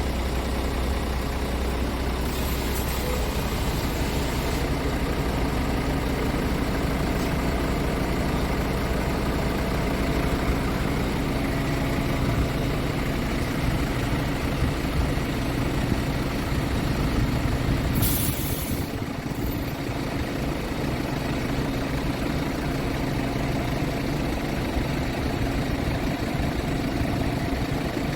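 Scania R500 tractor unit's 13-litre inline-six diesel idling steadily, with air hissing from the truck's air system twice: once a couple of seconds in, and briefly again about two-thirds of the way through.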